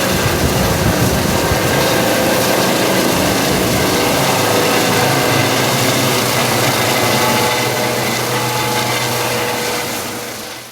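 Helicopter engine and rotor running steadily, fading away near the end.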